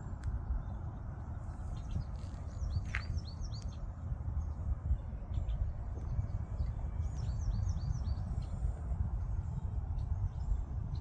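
Small birds chirping in two short runs of quick repeated high notes, the first a couple of seconds in and the second past the middle, over a steady low rumble.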